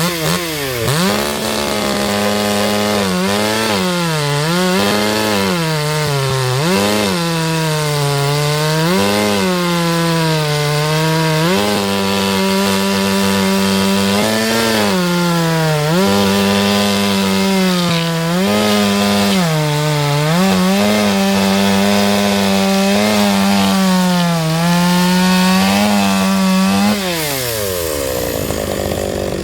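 Chainsaw cutting firewood, its motor at high speed and dipping in pitch again and again as the chain bites into the wood, then recovering. Near the end the motor speed falls away.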